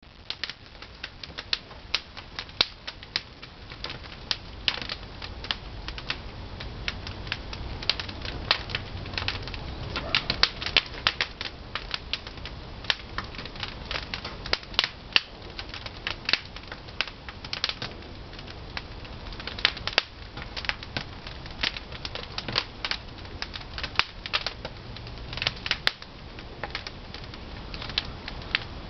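Pine firewood burning in a traditional wood-fired kiln: irregular crackling and popping over a steady low rush of the fire.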